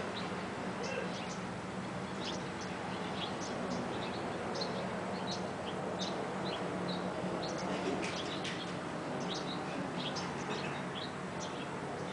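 Outdoor ambience of small birds chirping: many short, high chirps, several a second, over a steady low hum and background noise.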